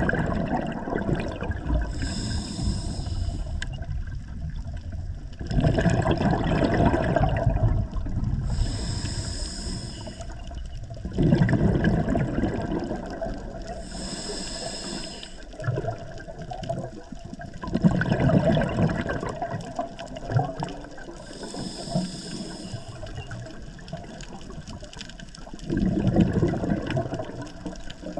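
Scuba diver breathing through a regulator underwater: a short high hiss as the demand valve opens on each breath in, then a rush of exhaled bubbles. The cycle repeats about every six seconds, with four breaths in and five bubble bursts.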